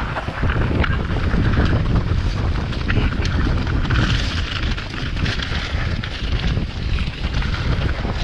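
Wind buffeting the microphone over the rumble and rattle of a mountain bike riding fast down a rough trail, with scattered sharp clicks and knocks from the bike.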